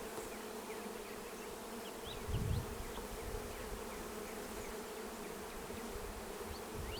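Honeybees buzzing steadily around an open hive, with individual bees flying close past the microphone. A single low thump comes about two and a half seconds in.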